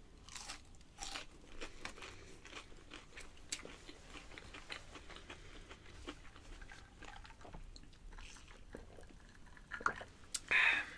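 Close-miked chewing of a breaded chicken strip: soft crunching and wet mouth clicks after a bite. Near the end there is one short, louder breathy sound.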